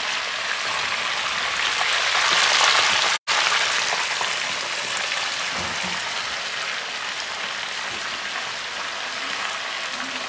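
Chicken legs frying in a pan of hot oil, a steady sizzling. The sound cuts out for an instant about three seconds in, then carries on slightly quieter.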